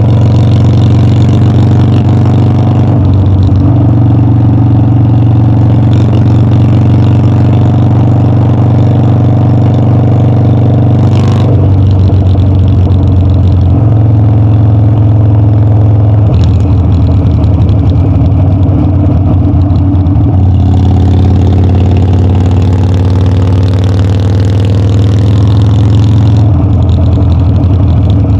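Harley-Davidson Dyna's air-cooled V-twin running under way, with its exhaust note changing pitch several times as the bike changes speed and gear. There is a brief click about eleven seconds in.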